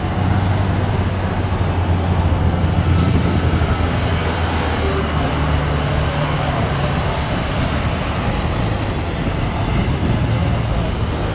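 John Deere skid steer's diesel engine running steadily with a constant low hum as the loader manoeuvres.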